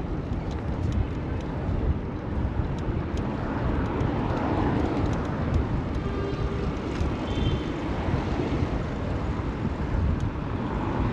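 Wind buffeting the microphone over a steady wash of street traffic noise, heard from a moving bicycle.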